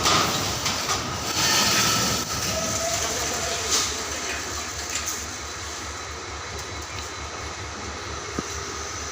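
A train running on the rails with a continuous rumble and wheel clatter, loudest in the first couple of seconds and easing off after about five seconds.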